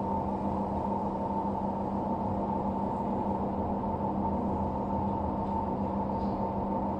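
LG washer-dryer drum running with a steady droning hum from its worn drum bearings. The bearings have run dry of grease because water has got past the drum seal.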